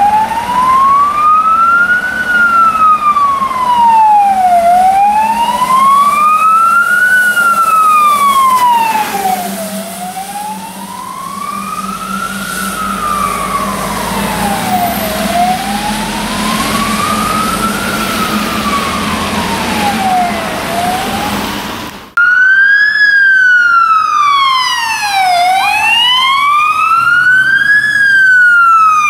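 Fire engine siren wailing, rising and falling slowly about every five seconds over the running truck's engine. About 22 seconds in the sound cuts and comes back louder, with a second, faster siren overlapping the first.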